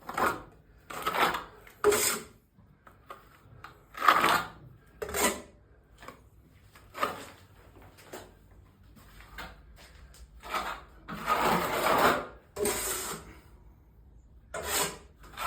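Irregular rough scraping strokes of hand refurbishing work, each about half a second long and coming roughly once a second, with one longer stroke of about two seconds near the end.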